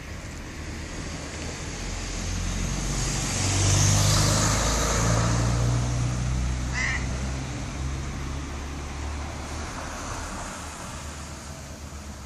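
A motor vehicle passing by: its engine hum and tyre hiss build to a peak about four seconds in, then fade slowly. A brief high chirp sounds about seven seconds in.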